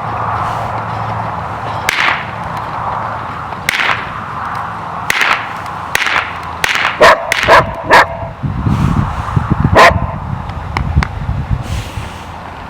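A dog barking in sharp single barks every second or two, with a quicker run of barks partway through, over a steady rush of outdoor noise.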